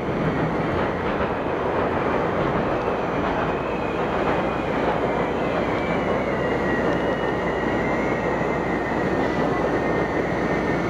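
Chicago 'L' Brown Line train running on elevated track, heard from inside the car: a steady rumble and rattle of the wheels on the rails. About halfway through, a thin high whine sets in and slowly falls in pitch.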